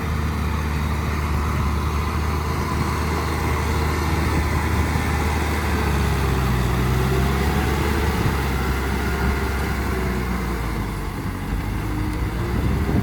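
Tractor engine running steadily as it works a field, with a deep, constant hum and its note shifting slightly in the second half.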